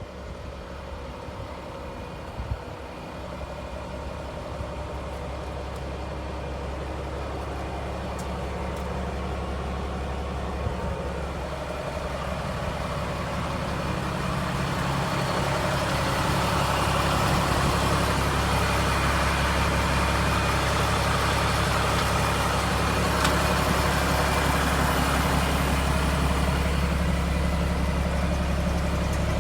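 Cummins L10 straight-six diesel running in a truck, a steady engine note with a rushing sound that grows louder through the first half and then holds steady.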